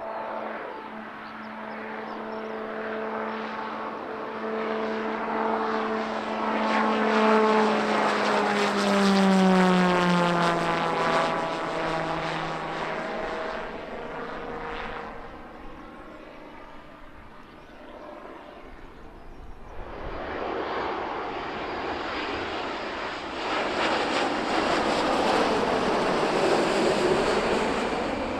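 An airplane passing close by, its engine tones falling in pitch as it goes past, loudest about a third of the way in. After a short lull, a second, broader engine roar without clear tones builds from about two thirds of the way in.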